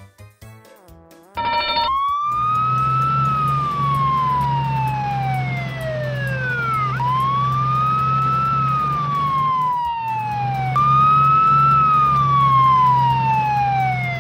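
Fire engine siren sound effect: a wailing tone that rises and falls in slow sweeps, three in all, over a steady low engine hum. It is preceded by a short horn-like blast a little over a second in.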